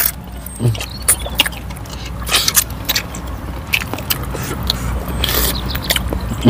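Close-miked eating sounds from two people eating saucy chicken with their hands: wet chewing and lip smacking with many short sharp clicks. There are two brief louder crackly moments about two and a half and five and a half seconds in.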